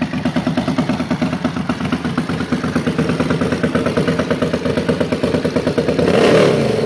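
Straight-piped 1988 Ducati Paso 750's air-cooled V-twin idling with a rapid, loud exhaust pulse, then blipped once near the end, the revs rising and falling.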